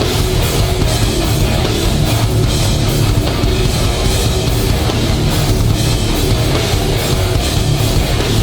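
Live hardcore band playing loud: distorted guitars, bass and a pounding drum kit in an instrumental passage with no vocals.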